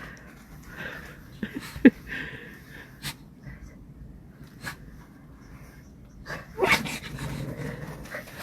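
Pet dogs making short non-barking noises: a sharp, brief yip-like sound about two seconds in, the loudest moment, a rasping huff near seven seconds, and soft snuffling in between.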